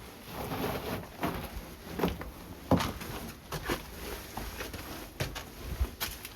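Scattered knocks and clicks, about a dozen at irregular intervals, of someone moving about a small room.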